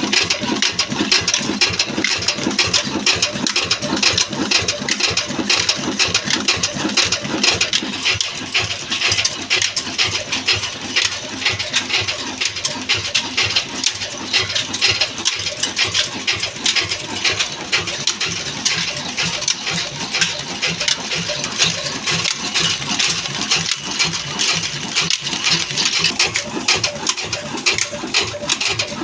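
Old Ruston diesel engine running steadily with a rapid, even mechanical clatter of knocks.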